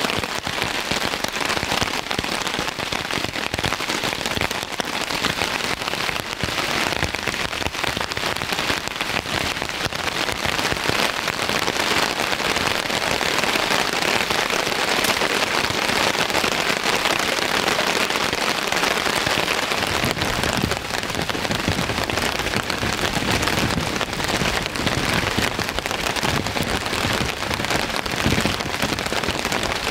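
Heavy rain falling: a dense, steady patter of drops on a surface, growing fuller and deeper from about two-thirds of the way through.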